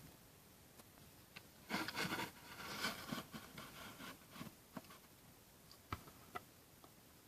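Hands handling a small plastic model building: a cluster of rubbing and scraping about two seconds in, then a few light clicks and taps around six seconds.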